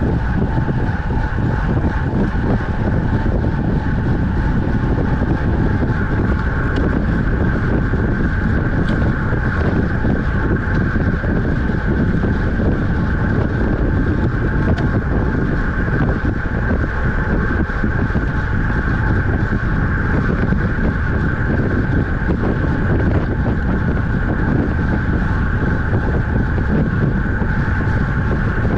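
Steady wind rushing over the microphone of a camera riding along on a road bicycle at speed, loud and even, with a constant higher hum running under it.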